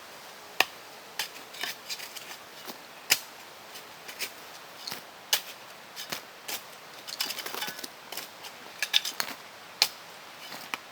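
Irregular sharp clicks and knocks, some louder than the rest, with a busier run of small clicks about two thirds of the way through.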